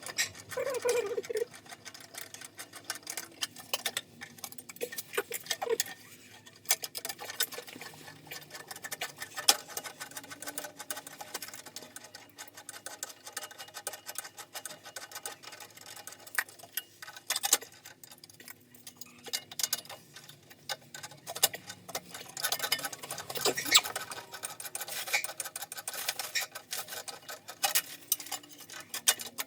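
An irregular run of many small clicks and light knocks, typical of hand work with tools and fittings, with a few brief squeaks.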